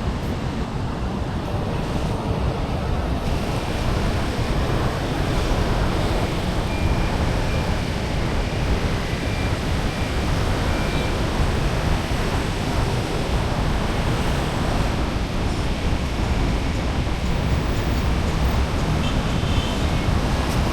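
Steady outdoor ambience: a continuous low rumble of wind buffeting the microphone under an even wash of background noise.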